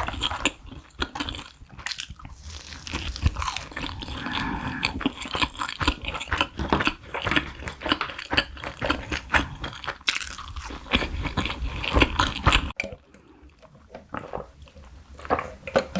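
Close-miked eating: crunchy bites and chewing, with a rapid crackle of small clicks that goes quieter for a moment near the end.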